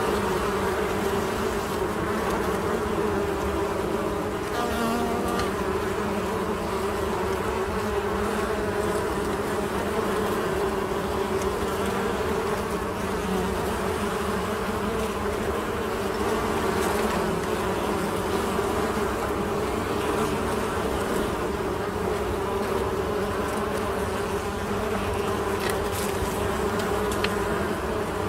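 Many honey bees buzzing together in a steady, dense hum with a low drone, the wingbeats of a busy swarm or colony.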